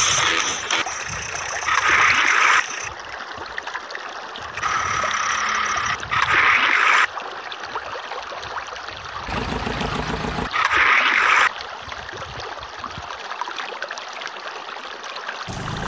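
Water running and splashing in several separate stretches of a few seconds each, louder at about 2, 6 and 11 seconds in, as muddy toy vehicles are washed.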